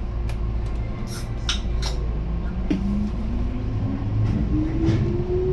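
Keihan electric train accelerating. A steady running rumble and a few sharp clicks of wheels over rail joints are followed, about halfway through, by the traction motors' whine rising steadily in pitch as the train gathers speed.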